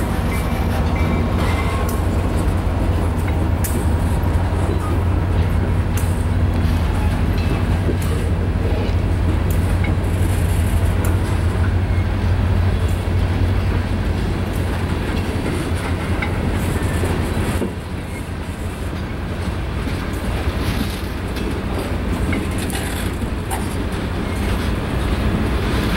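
Freight train's tank cars and open-top freight cars rolling past: a steady deep rumble of steel wheels on rail, with frequent sharp clicks. The sound drops a little about two-thirds of the way through.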